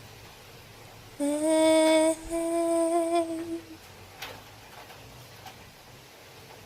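A woman's voice humming two long held notes in a row, starting about a second in and fading out after a couple of seconds, leaving only a faint hiss with a single small tick.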